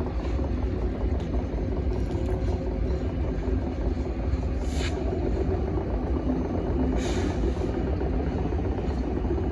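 Diesel train engine running steadily with a low rumble, with two short hisses about five and seven seconds in.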